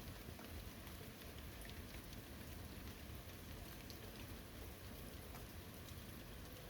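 Quiet, steady rain falling, with many separate drops ticking throughout.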